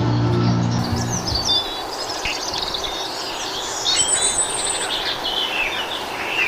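Music ends about a second and a half in, giving way to small birds chirping and singing over a steady background hiss.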